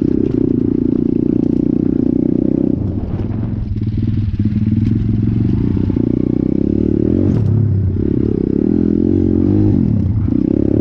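Single-cylinder engine of a Stomp Thumpstar Detroit 170 pit bike running under throttle, the revs dropping and picking back up three times.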